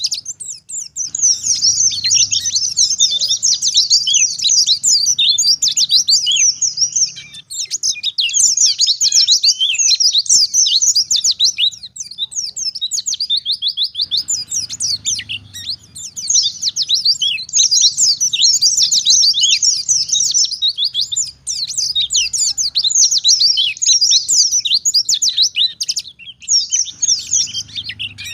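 Wild-caught white-eye (pleci) singing a fast, continuous twittering song in full voice, broken by a few short pauses.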